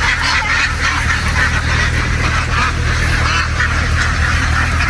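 A large flock of domestic ducks quacking all at once, a dense, continuous din of overlapping calls, with a steady low hum underneath.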